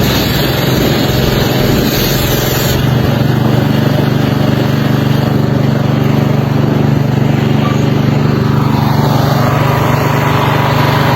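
Pressure washer running steadily, its engine humming under a continuous hiss of spray.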